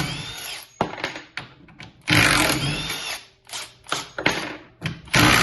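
Milwaukee M12 FUEL impact driver on a full battery backing screws out in quick bursts of about a second and a half each, its motor and hammer rising and falling in pitch: one burst ends just under a second in, a second comes in the middle, and a third starts near the end.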